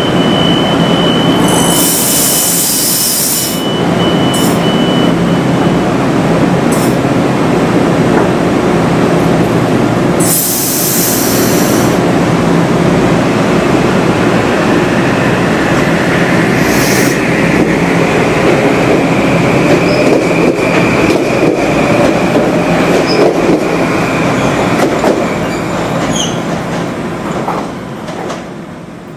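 Metro-North M8 electric train pulling out and running: steady rail and running noise with two short hisses about two seconds and ten seconds in, and a motor whine rising in pitch as it picks up speed. The sound fades over the last few seconds.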